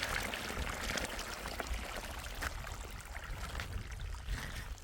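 Running water, an even rushing trickle, with a low rumble underneath.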